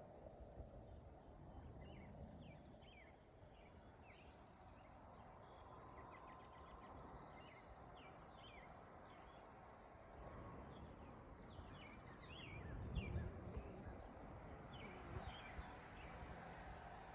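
Faint outdoor ambience: many short chirping bird calls over a low rumble of wind, which swells about three-quarters of the way through.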